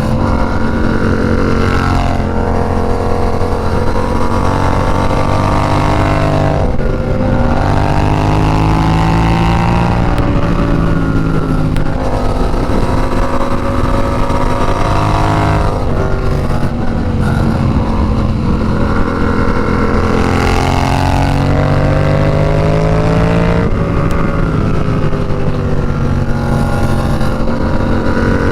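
Yamaha FZ-07's parallel-twin engine running under way, its revs climbing and then dropping sharply again and again, about every three to five seconds, as the bike accelerates and shifts or eases off.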